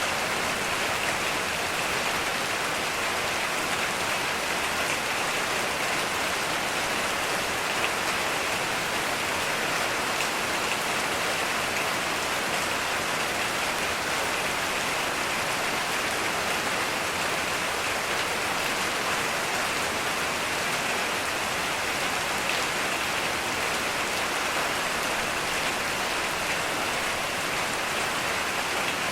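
Steady heavy rain falling, a dense even hiss of drops on surfaces without any thunder.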